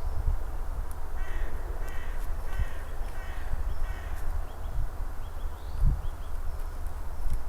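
A bird giving five short calls in a row, starting about a second in, over a steady low rumble such as wind on the microphone.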